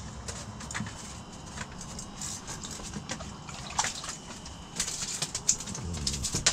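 Light splashing and dripping of water with scattered short clicks and knocks, busier in the last second and a half.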